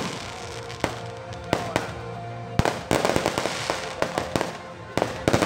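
Aerial fireworks bursting overhead: sharp bangs at irregular intervals, thickening into a quick run of crackling bangs about three seconds in and again near the end, over steady background music.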